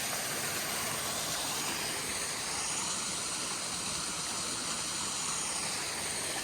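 Water of a rocky stream running steadily, an even rushing hiss with no breaks.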